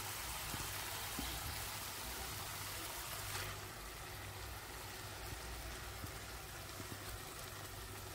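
Marinated chicken sizzling in hot oil and tomato-onion masala in a kadai, a steady hiss that eases slightly about halfway, with a few faint ticks.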